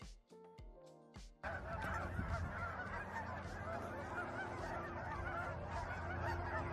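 A large flock of cackling and Canada geese honking together in a dense, continuous chorus over a steady low rumble. It begins suddenly about a second and a half in, after a short stretch of background music.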